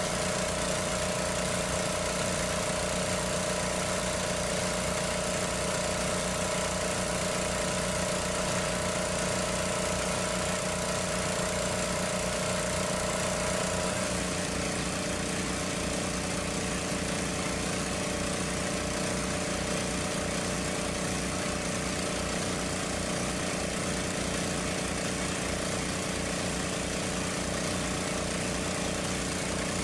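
A small engine running steadily with an even low beat; about halfway through its pitch drops slightly and it carries on at the new speed.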